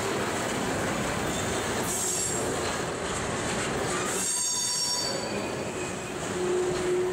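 Freight train tank cars rolling past, steel wheels grinding on the rails, with high-pitched wheel squeals about two seconds in and again around four seconds in, and a steady lower squeal near the end.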